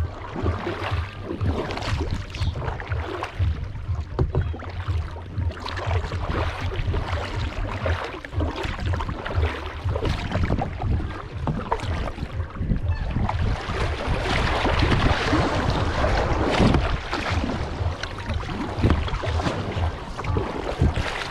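Kayak paddle strokes dipping and splashing in the water, with a steady low rumble of wind on the microphone; the water noise grows louder for a few seconds in the middle.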